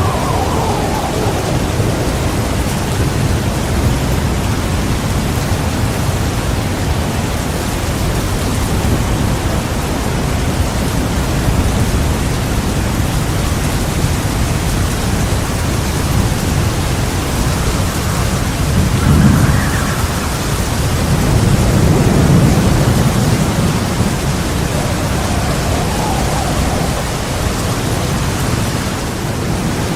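Thunderstorm: heavy rain pouring steadily, with rolling thunder swelling about two-thirds of the way in.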